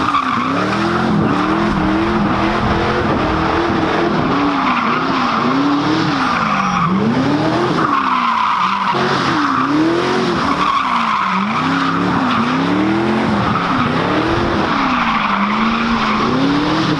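A car engine revving up and down over and over while the tires squeal, as a car drifts or does donuts. The squeal drops out briefly about halfway through, and near the end the revs fall away.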